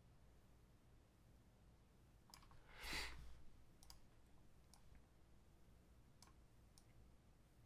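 Near silence with a few faint, sharp computer mouse clicks spread through it, and one brief soft rush of noise about three seconds in.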